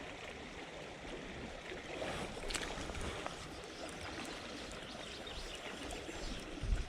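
Small river flowing steadily, still running a little high after flooding. A faint click comes about two and a half seconds in.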